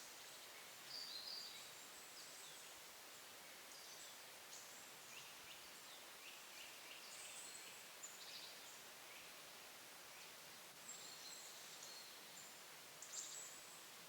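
Faint, high-pitched short calls of small woodland songbirds, scattered irregularly over a steady background hiss.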